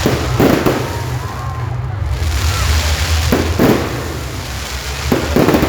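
Fireworks going off: bangs and crackles in three clusters, near the start, a little past the middle and near the end, over a steady noisy background with a low rumble.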